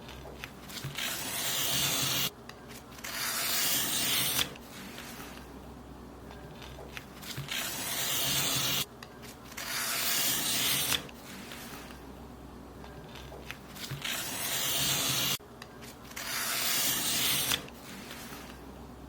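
Paper being cut in long strokes, each swelling to a hiss and stopping abruptly; the strokes come in pairs, six in all, over a low hum.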